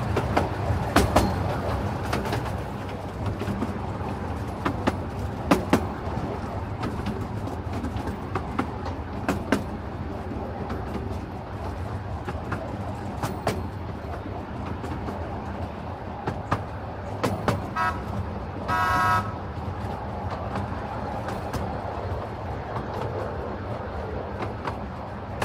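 Miniature railway train running, heard from an open passenger coach: a steady low rumble with irregular clicks and knocks from the wheels on the track. About three-quarters of the way through, the locomotive gives one short toot.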